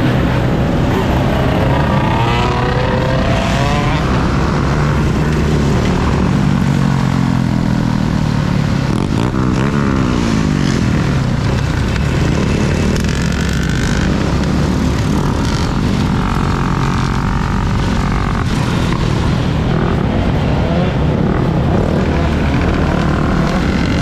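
Riding noise on an electric dirt bike in city traffic: a steady rush and rumble, with the notes of passing vehicles gliding up and down in pitch several times.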